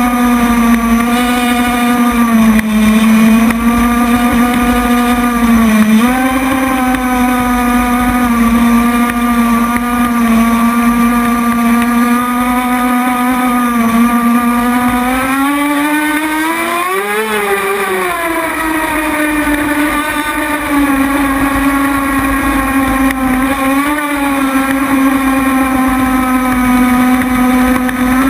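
Small, high-revving boat engine running steadily with a high-pitched drone. About halfway through it revs up sharply, then settles back to its steady pitch.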